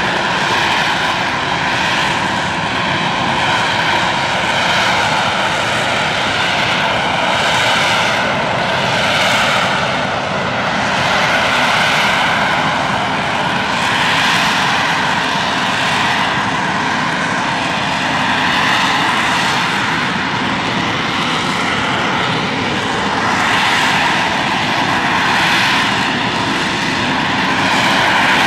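AV-8B Harrier II+ jet, its Rolls-Royce Pegasus turbofan running loud and continuous with a high whine in the noise. It swells and eases slightly every couple of seconds.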